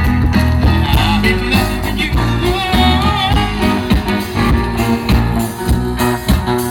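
A band playing live at a sound check: a singer's voice over guitar, bass and drums.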